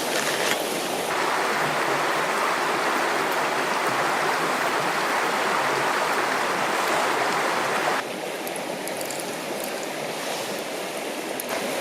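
River water rushing and flowing in a steady hiss, its tone shifting abruptly about a second in and again near 8 seconds.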